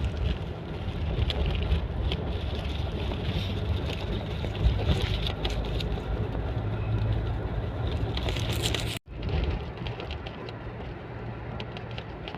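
Steady rumbling road and engine noise of a car on the move. It cuts out abruptly for an instant about nine seconds in, then carries on a little quieter.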